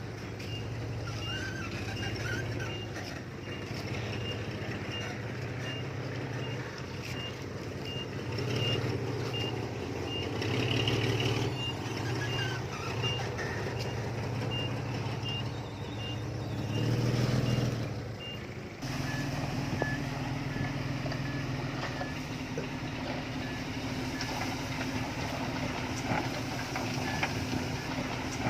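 Diesel construction machinery running under a repeating high reversing-alarm beep. About two thirds of the way through, the sound changes abruptly to a lower, slower reversing beep over the engine.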